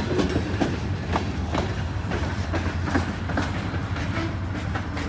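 Freight train rolling past, its wheels clicking irregularly over the rail joints above a steady low rumble.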